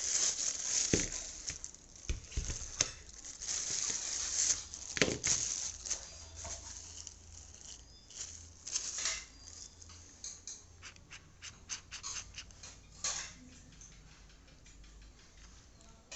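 Rustling of packaging with scattered clicks and taps as a boxed electric drill is unpacked and handled. The rustling is heaviest over the first six seconds, and it thins out into sharper, separate clicks after that.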